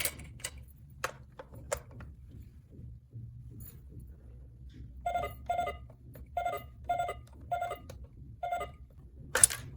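Toy electronic cash register being played with: a few plastic clicks, then six short electronic beeps as its buttons are pressed, and a loud clatter near the end.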